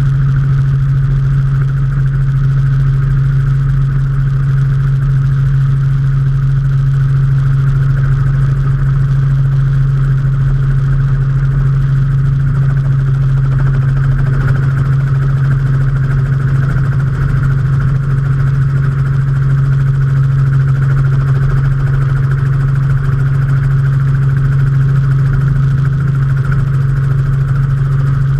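Robinson R44 helicopter in flight, heard from on board: a loud, steady drone of its piston engine and rotor, with a strong low hum that holds unchanged throughout.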